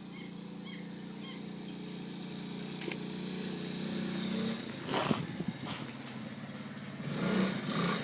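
Quad bike engine idling steadily, with a sharp knock about five seconds in and a rougher, louder stretch near the end.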